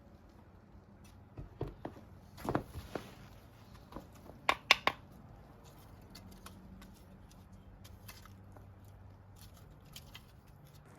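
Wood being handled: a few sharp wooden knocks and clatters in two short clusters, with a brief rustle and scattered light ticks between them.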